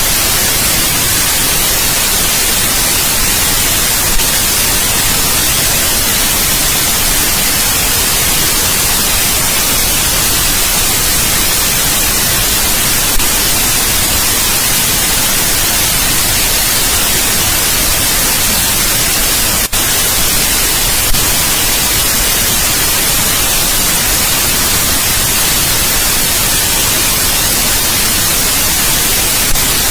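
Steady white noise: an even, unbroken hiss across the whole range, brightest in the highs. A few faint clicks break through, about a third of the way in and twice around two-thirds of the way.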